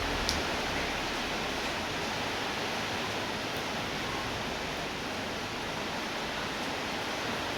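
Steady rainfall, an even hiss of rain with no letup, and one brief sharp click just after the start.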